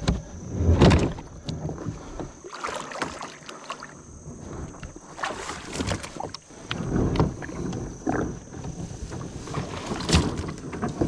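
A kayak being launched by hand in shallow water: irregular splashes and sloshing with knocks and scrapes against the hull.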